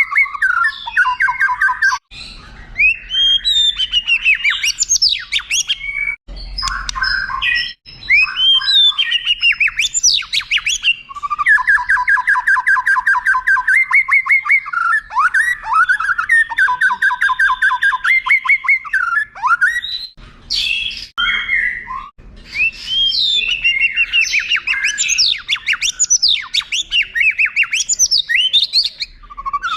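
White-rumped shama song: loud, varied whistled phrases and fast rattling trills, spliced together from several recordings with abrupt cuts between segments.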